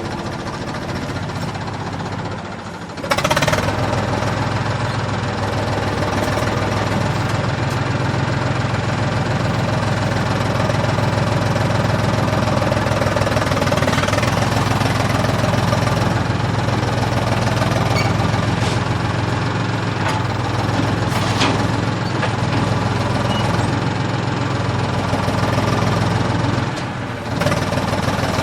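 Remote-control toy tractor running with a steady, engine-like drone. It gets louder about three seconds in and dips briefly near the end.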